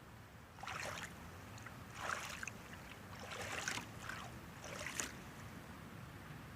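Kayak paddle strokes dipping and splashing in the river, a faint swish about once a second.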